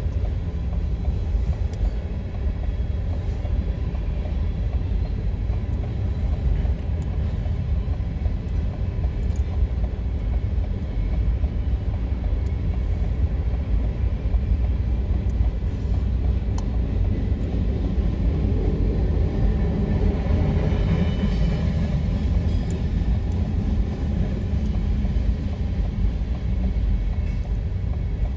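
Freight train of Herzog ballast hopper cars rolling past at steady speed: a continuous low rumble of wheels on rail with faint clicks, swelling for a few seconds about two-thirds through.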